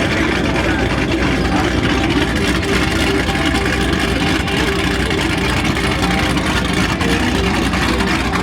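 Two Chevrolet Corvette V8s, a ZR1 and a Z06, idling steadily side by side.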